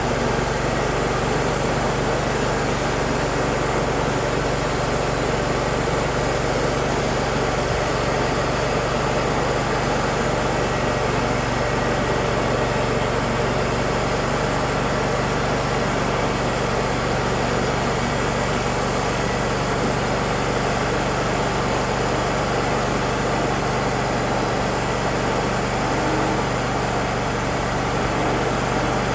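Wood-Mizer LT35 portable bandsaw sawmill running steadily, its engine holding one even note throughout.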